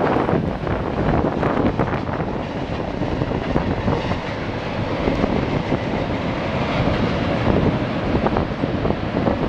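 Freight cars loaded with concrete ties rolling across a steel trestle bridge: a steady rumble of wheels on rail, with a few sharp clicks in the first two seconds. Wind buffets the microphone.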